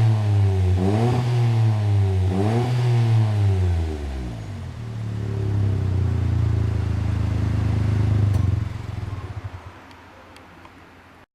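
Suzuki Jimny exhaust through an aftermarket rear-piece muffler with a deep note: two quick throttle blips in the first three seconds, then a steady idle. About 8.5 s in the engine note fades away.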